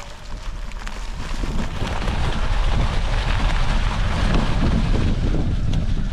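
Wind buffeting the microphone over the rolling rumble of an e-bike riding a forest trail, swelling over the first two seconds and then staying loud.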